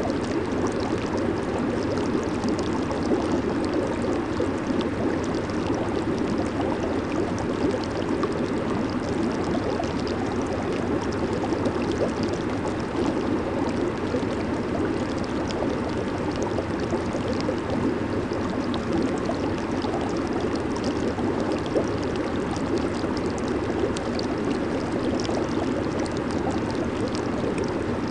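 Jacuzzi hot tub water churning in a steady rush, with a fine crackle of bubbles over it.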